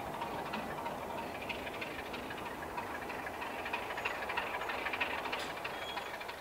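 A train running on the rails out of sight: a steady rumble and hiss with rapid clicking from the wheels and track, fading near the end.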